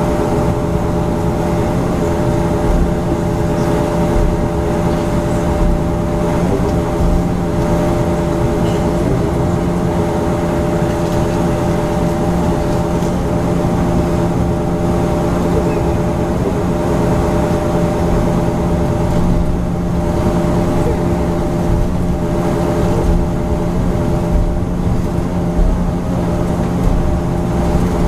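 Cabin drone of a Bombardier Q400's Pratt & Whitney PW150A turboprops, heard from inside the passenger cabin: a steady hum of several fixed tones over a constant rumble and hiss, with the engines holding at steady power.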